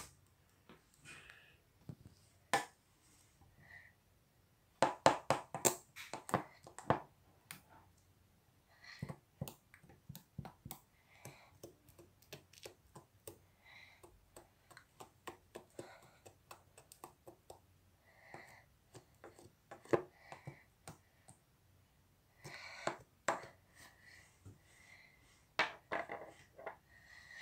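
Hands playing with slime: an irregular string of small clicks and pops as the slime is pressed and stretched, with denser, louder bursts around five to seven seconds in and again near the end.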